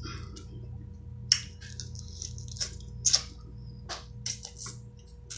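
Scattered soft clicks and crackles, about one a second, from handling the reheated seafood boil and its packaging, over a steady low electrical hum.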